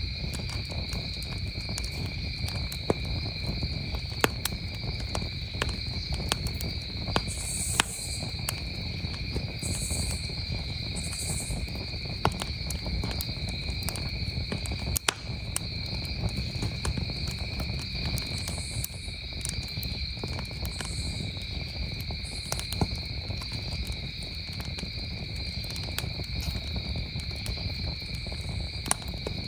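Wood campfire crackling, with sharp pops scattered irregularly, over a steady, unbroken chorus of chirping crickets. One snap stands out about halfway through.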